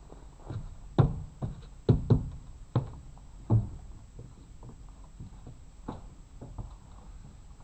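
A series of irregular knocks and thumps, about seven, bunched in the first few seconds with a last one later on.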